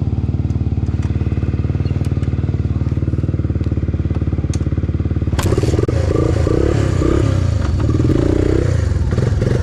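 Single-cylinder off-road engine of a three-wheeler or dirt bike running at a steady idle, then about five and a half seconds in it picks up and revs up and down as the machine moves off.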